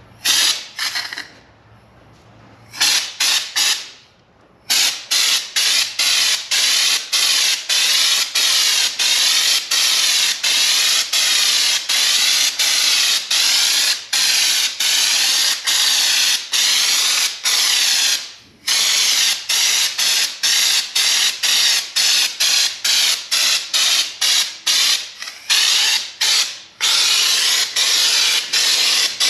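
Compressed-air spray gun spraying bed liner, a loud hiss in short bursts at first and then nearly continuous. The hiss is broken by brief regular dips about twice a second and by one short pause about two-thirds of the way through.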